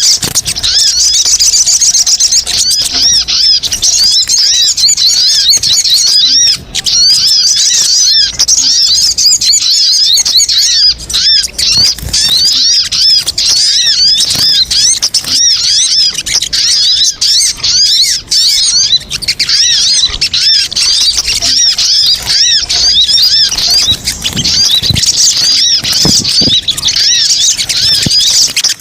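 Sogon bird calling: an unbroken, rapid chatter of high, thin chirps, several notes a second, as used in a lure recording to draw in sogon birds.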